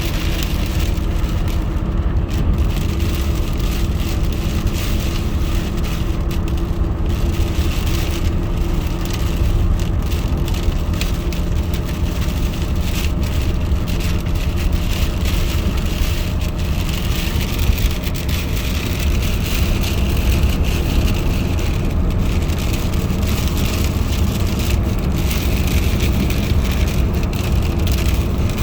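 Steady road and engine noise inside a moving car's cabin, heavy and rumbling low down with a faint steady hum over it.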